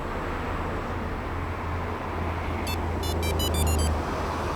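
VIPER car security system sounding a quick run of about seven short, high electronic beeps at varying pitches about three seconds in, over a steady low hum.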